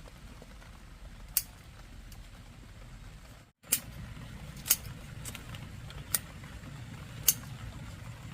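Five sharp snaps, each a second or so apart, as chayote shoot tips are cut or snapped off the vine, over a low steady background.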